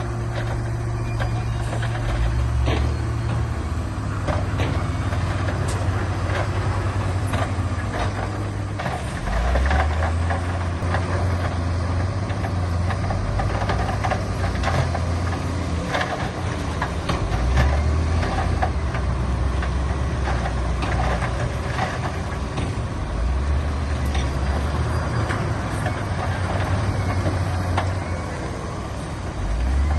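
Diesel engine of heavy earthmoving machinery working, its low note rising and falling every few seconds as the load changes, with scattered knocks and clanks throughout.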